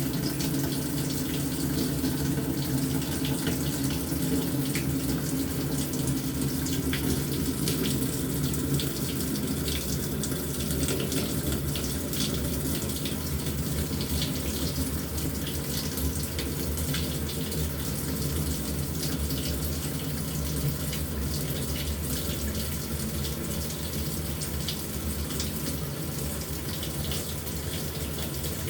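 LG top-loading washing machine filling its tub with water at the start of the wash cycle: a steady rush of water pouring in.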